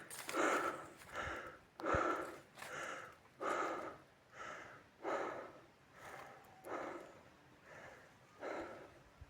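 A person breathing hard close to the microphone, panting in a steady rhythm of about one breath every three-quarters of a second, gradually easing off.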